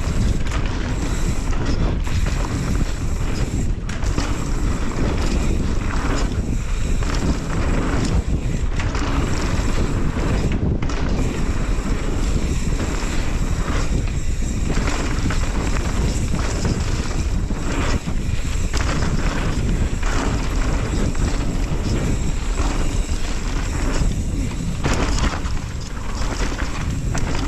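Mountain bike riding downhill at speed: wind buffeting the camera's microphone over the steady rumble and rattle of the tyres and bike on the trail.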